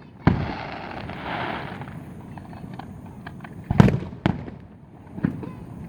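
Fireworks bursting: a sharp boom, then a crackling hiss for about a second and a half, a scatter of small pops, and two more heavy booms close together about four seconds in, followed by a lighter one.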